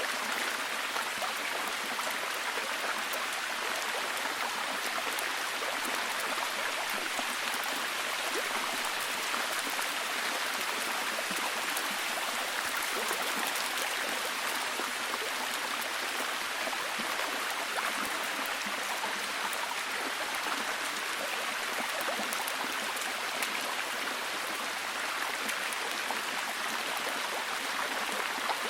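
Steady, heavy rain falling, an even hiss speckled with the patter of individual drops.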